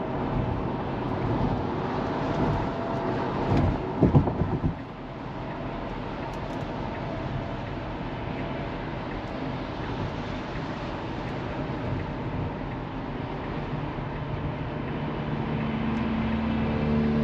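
Steady road and tyre noise inside the cabin of a Tesla Model 3 at speed, with no engine sound. A short cluster of heavy low thumps comes about four seconds in, and a low steady hum begins near the end.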